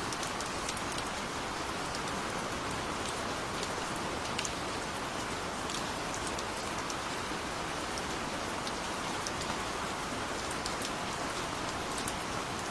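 Steady rain falling, an even hiss with many small, sharp drop ticks pattering on a surface.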